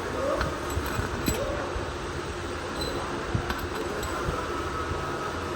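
Steady workshop hum with a few light metallic clinks and taps scattered through it.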